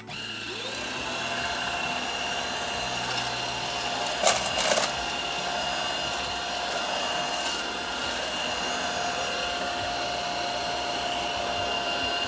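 Cordless stick vacuum motor switching on and spinning up with a rising whine, then running at a steady high-pitched whine. About four seconds in there is a brief loud clatter, and near the end the motor switches off and winds down with a falling whine.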